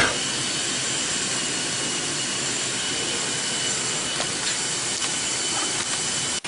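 Double-head CNC router running: a steady hiss with a faint, even high whine, with a short click at the start.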